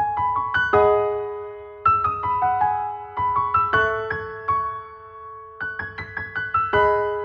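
Background music: a gentle piano melody of struck notes that ring and fade over a held low note.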